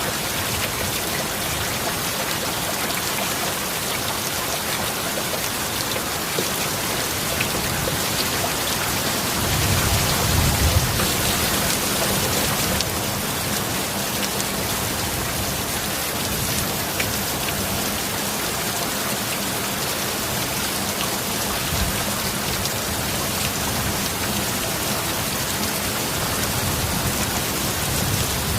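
Steady rain falling, with a low rumble of thunder swelling about ten seconds in.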